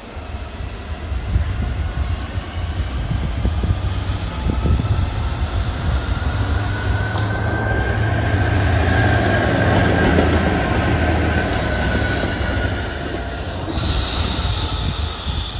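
A train running through the station close by: a steady low rumble with high sustained squealing tones over it. It swells to its loudest about ten seconds in, then eases.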